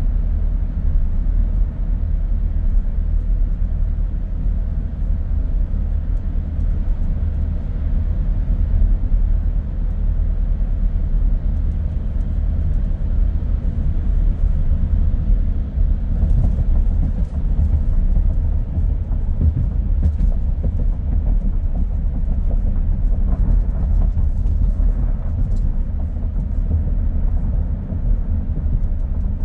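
Steady low road rumble and tyre noise of a car driving along a street, with small clicks and rattles here and there.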